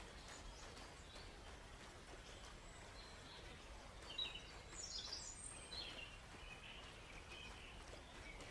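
Forest birds chirping faintly, with a busier run of quick high chirps and trills about four to five seconds in, over the faint steady hiss of a gentle river.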